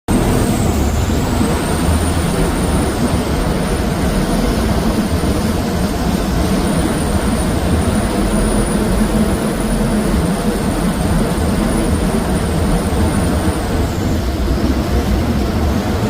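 Saen Saeb canal boat's engine running steadily, a loud continuous rumble with water rushing. A thin high whine wavers above it and fades out near the end.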